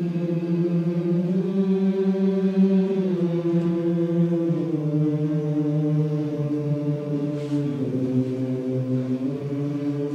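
A chorus of voices singing held chords on a vowel as a warm-up exercise, with the pitches moving to new notes every second or two in short stepwise glides.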